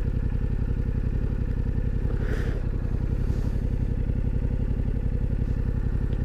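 Suzuki motorcycle engine idling steadily, an even run of exhaust pulses with no revving.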